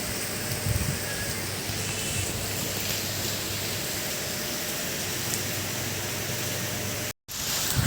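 Steady, heavy rain as an even hiss, with a few faint low thuds about a second in. It breaks off to silence for a moment near the end, then resumes.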